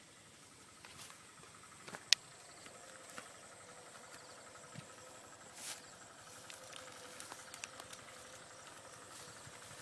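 Faint outdoor ambience of insects trilling steadily. A single sharp click comes about two seconds in, and a brief rustle near the middle.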